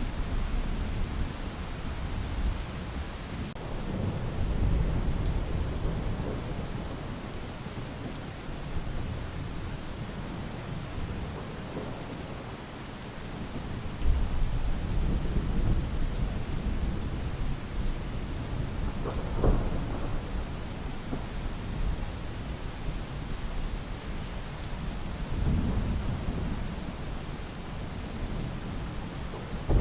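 Steady rain with rolls of thunder: low rumbles swell up several times, one starting suddenly about halfway through, with a brief sharper crack a little after that.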